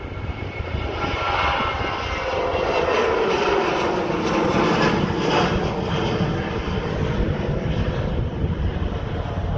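Transavia Boeing 737-800's CFM56-7B turbofan engines at takeoff thrust as the jet lifts off and climbs past. A loud rush builds over the first couple of seconds, with a whine that falls steadily in pitch as the aircraft passes.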